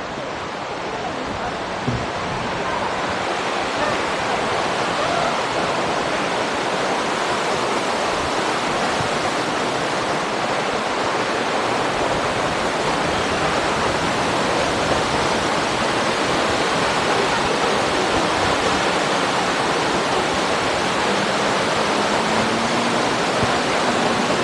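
Heavy rushing water at a dam, a steady dense hiss of falling water that builds a little over the first few seconds. A faint low hum comes in near the end.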